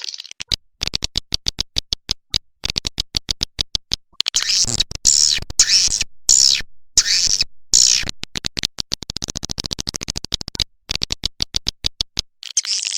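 Swiftlet lure recording: trains of rapid sharp clicks, with a stretch of high twittering swiftlet calls in the middle. The clicks come faster toward the end. It is a call sound played to draw swiftlets into a nesting house.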